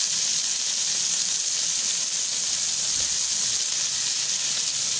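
Chicken seekh kababs sizzling as they shallow-fry in hot oil in a pan: a steady hiss.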